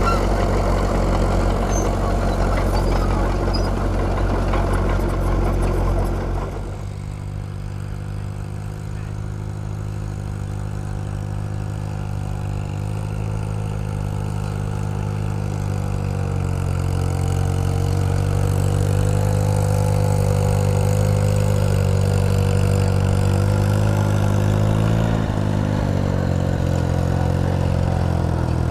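Engine running. There is a deep, heavy engine note for the first six seconds, then an abrupt change to a steadier engine note that grows louder about halfway through and holds.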